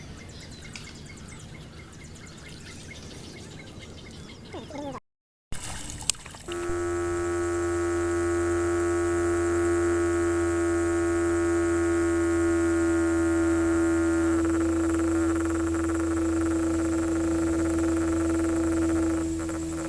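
Faint background for about five seconds, then after a click a small battery-powered DC hobby motor runs at a steady speed with a loud, constant hum.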